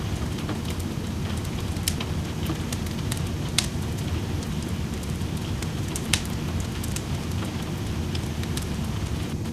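Wood fire crackling in a fireplace, with sharp pops about two, three and a half and six seconds in, over a steady patter of rain.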